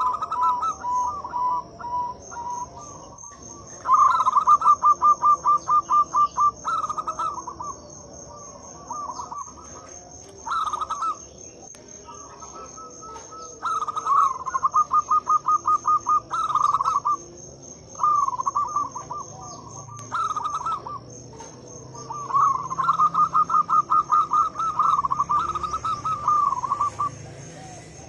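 Zebra dove (perkutut) cooing: repeated phrases of quick stuttering coos, each a second or a few seconds long, with short pauses between. A steady high-pitched buzz runs underneath.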